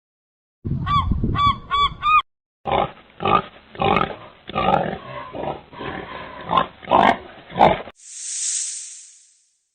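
Animal calls: a quick run of about five honking calls, then several seconds of rougher grunting calls. They end in a hiss that swells and fades.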